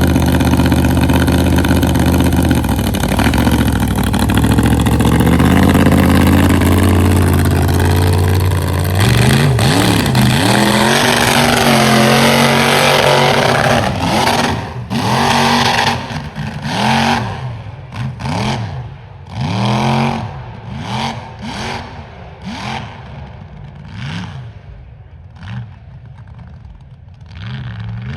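Mega truck engine held at high revs under load for about fourteen seconds, then blipped in a string of short revs that rise and fall in pitch, roughly one a second, fading toward the end.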